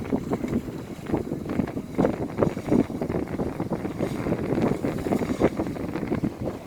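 Wind buffeting the microphone: a rough, uneven rumble that rises and falls in gusts.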